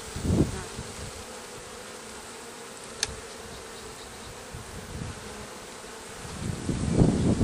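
Honeybees humming steadily around an opened hive. Low rumbles of wind on the microphone come about half a second in and again near the end, and there is a single sharp click about three seconds in.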